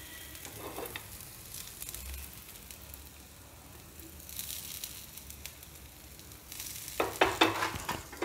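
Shredded potato rosti frying in ghee in a non-stick pan: a steady, soft sizzle. Near the end a wooden spatula scrapes and taps against the pan several times in quick succession.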